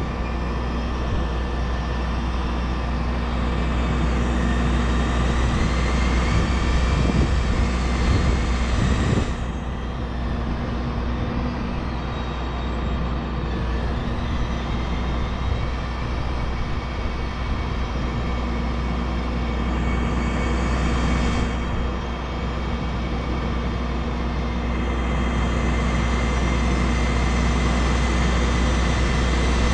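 Crane truck's engine running steadily, swelling and rising in pitch twice as it is worked for the lift.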